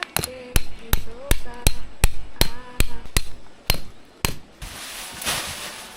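Hammer striking metal, about eleven blows in a steady rhythm of two to three a second, each with a short ring. A brief rushing hiss follows near the end.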